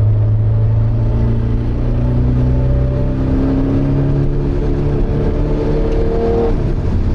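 Porsche 924's 2.0-litre four-cylinder engine heard from inside the cabin, pulling up through the revs under acceleration. About six and a half seconds in, the pitch drops sharply as the car shifts up a gear.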